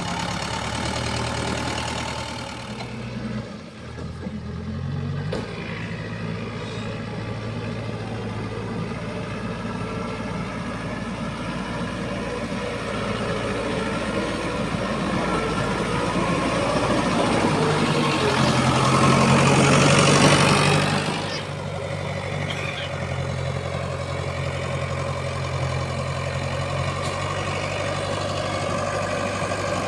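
Heavy diesel engine of earth-moving machinery running steadily, working harder and louder for a few seconds around twenty seconds in, then settling back to a steady run.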